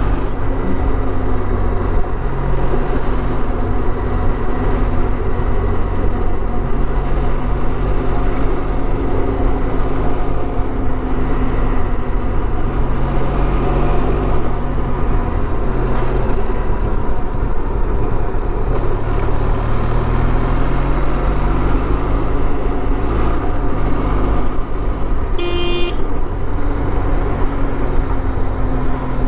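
Benelli TRK 502 parallel-twin engine running on the move, its pitch rising and falling with the throttle. A short horn honk sounds about 25 seconds in.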